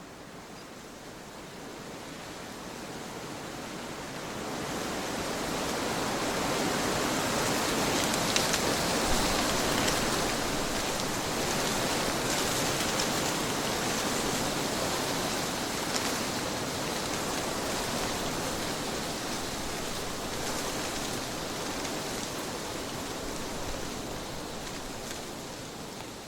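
Trade wind blowing: a gust builds over a few seconds, stays strong for a while, then slowly eases off.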